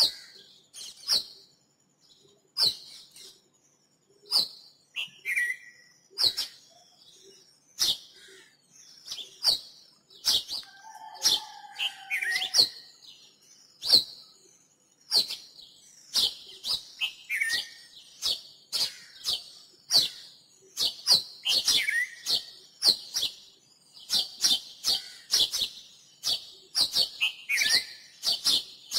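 Birds chirping: a stream of short, sharp, high chirps at an irregular pace, growing denser in the second half, with a few lower calls sliding downward in pitch.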